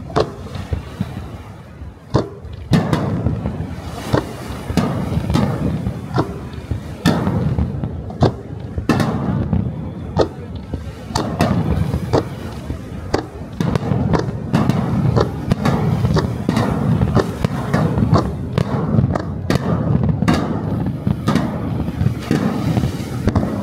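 Aerial fireworks shells launching and bursting, a sharp bang every second or so over a continuous low rumble.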